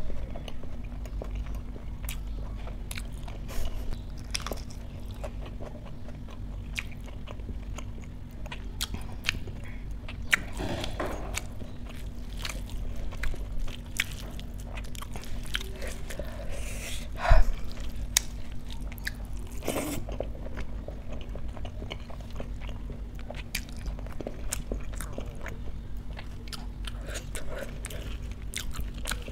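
Close-miked chewing and crunching of a mouthful of rice and dal eaten by hand, with many small wet mouth clicks and one louder sharp click about 17 seconds in. A steady low hum runs underneath.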